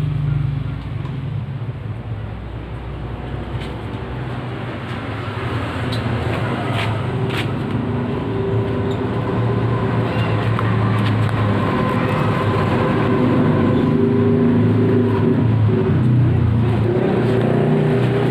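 A steady low engine hum that grows gradually louder, with a few sharp clicks.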